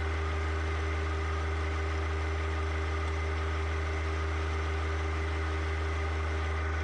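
John Deere 1025R compact tractor's three-cylinder diesel engine running steadily at an even speed, with no revving.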